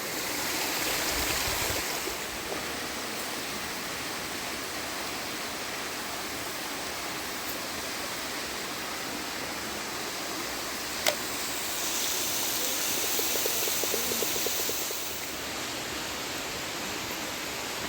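Steady rush of flowing water, with one sharp click about eleven seconds in.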